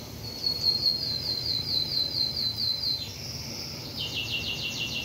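A bird calling in rapid trills of short, high notes: about five notes a second at first, then a faster, lower trill about four seconds in. Underneath is the steady sizzle of battered sausages deep-frying in oil.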